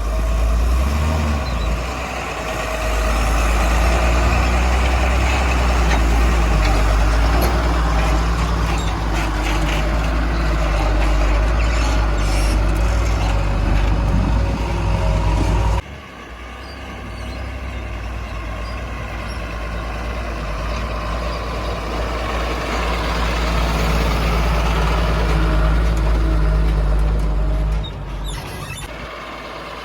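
JCB 3DX backhoe loader's diesel engine running under load while digging and loading mud, a steady heavy drone. It breaks off abruptly about halfway through and comes back, then drops in level near the end.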